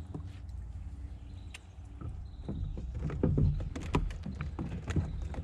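Irregular knocks and thumps on a plastic fishing kayak as a 27-inch catfish thrashes while being landed. The knocks start about two seconds in and come thickest near the end, over a steady low rumble of wind on the microphone.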